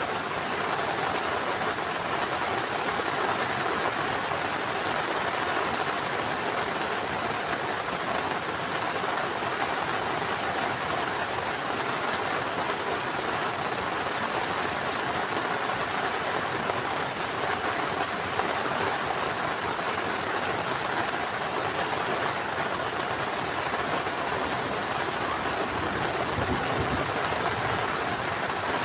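Heavy rain falling steadily, an even unbroken hiss of rain pattering on surfaces.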